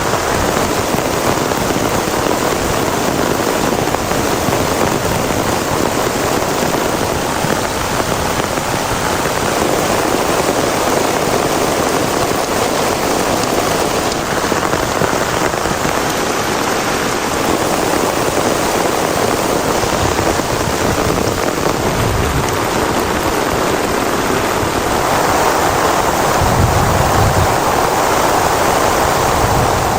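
Heavy rain falling steadily, a dense continuous downpour, with a few short low rumbles about twenty seconds in and again near the end.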